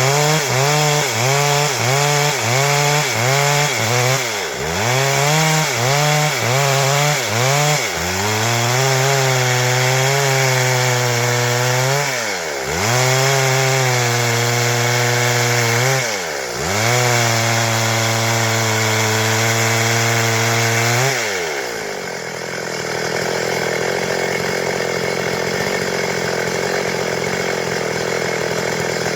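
Stihl MS 382 two-stroke chainsaw at high revs, cutting wood. For the first several seconds the engine note surges and sags repeatedly. It then holds at full throttle in three long runs with brief dips between them. About 21 seconds in the engine note falls away, leaving a steady noise.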